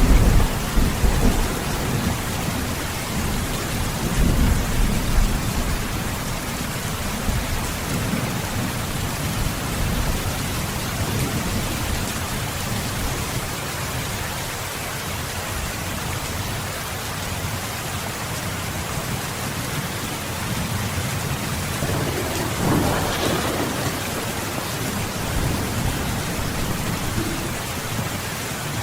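Steady rain falling, with rolling thunder rumbling through the first few seconds and again about twenty-three seconds in.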